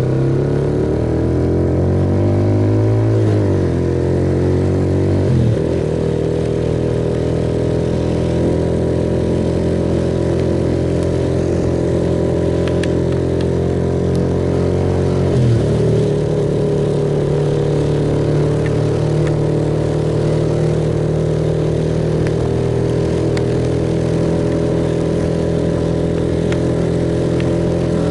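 Suzuki Yes motorcycle engine under way: it changes pitch through the first few seconds and again about fifteen seconds in, then holds a steady cruising note.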